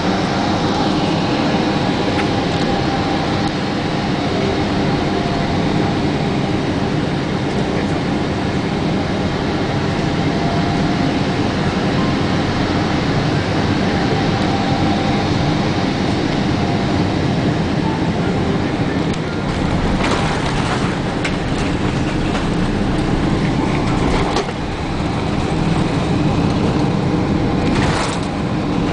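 Cabin noise inside a Boeing 777-200ER on arrival: a steady rush of engine and airflow noise, with a few brief knocks and rattles about twenty seconds in and again near the end.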